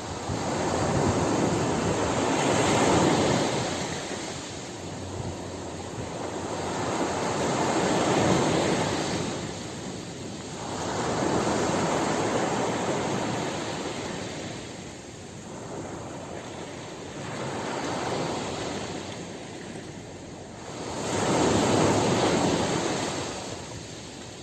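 Ocean waves breaking and washing onto a shore, the surf swelling and fading in about five surges, one every four to five seconds.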